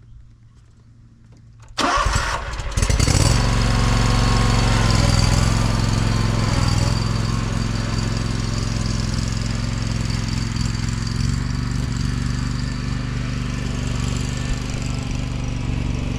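An engine starts about two seconds in, stumbles briefly, then settles into steady running.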